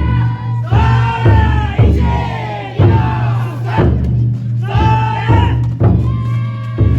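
Futon daiko festival float: a taiko drum beating heavily and unevenly, with a group of voices chanting loudly twice, about a second in and again about five seconds in.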